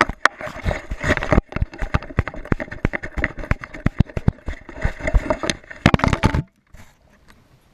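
Rapid, irregular knocks and rattles from a GoPro camera strapped to a moving dog, the mount and housing bumping with each step; it stops abruptly about six and a half seconds in.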